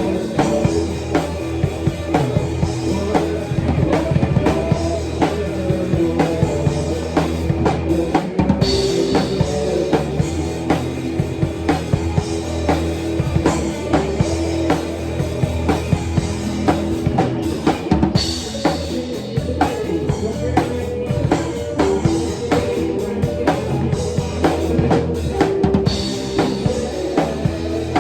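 Live band playing a song, with a drum kit driving a steady beat of kick and snare hits under held notes from the other instruments.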